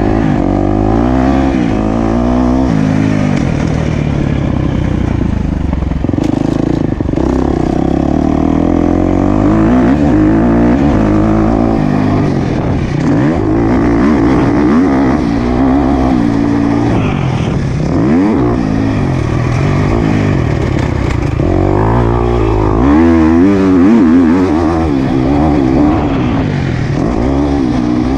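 Motocross bike engine being ridden hard around a dirt track, revving up and dropping back again and again as the rider accelerates, shifts and brakes, with the pitch rising and falling every second or two.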